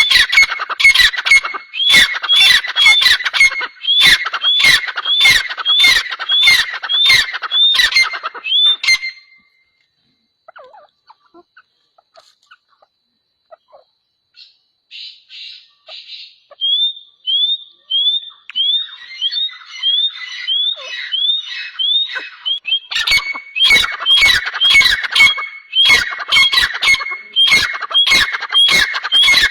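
Birds calling over and over in short, sharp, high notes, about two a second. The calls stop for several seconds in the middle, then start again, softly at first and loud again near the end.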